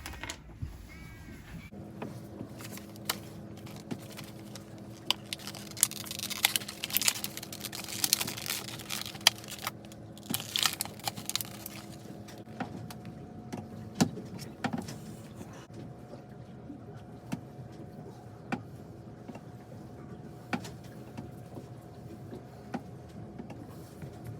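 Hands working on a small plastic part: scattered clicks, taps and stretches of rubbing or scraping, busiest a few seconds in, over a steady hum.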